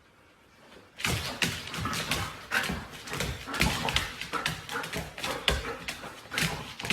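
A dog whining and yipping in short, irregular sounds, starting about a second in.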